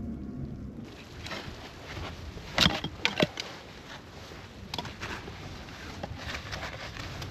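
A few sharp knocks and clicks, the loudest a close group about two and a half to three seconds in, over a steady rustling background.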